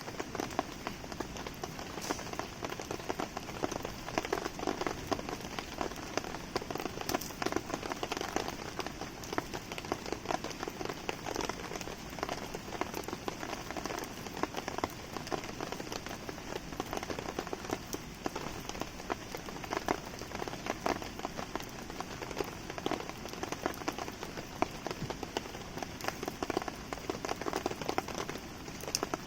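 Steady rain falling and pattering, dotted with many small sharp ticks, mixed with a wood campfire burning.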